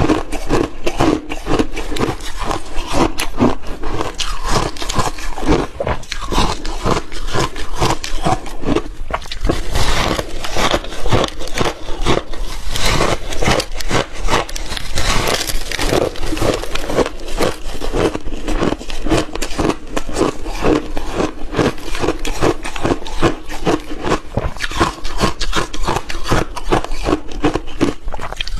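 Close-miked crunching of frozen milky shaved ice between the teeth: a dense, unbroken run of sharp cracks and crunches as the ice is bitten and chewed.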